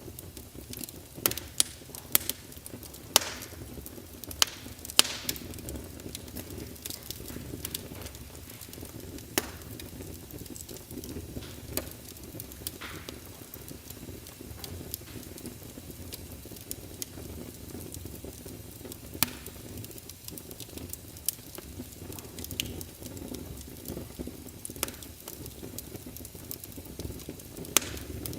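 Wood fire crackling in a fireplace: a steady low rumble of flames with irregular sharp pops and snaps, several loud ones in the first few seconds and another near the end.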